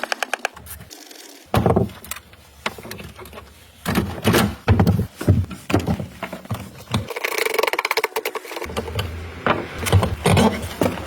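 Hand tools working on a car's steering rack: a quick run of ratchet-like clicks at the start, then scattered metal knocks and clanks, with a steadier rattling stretch of about a second and a half past the middle.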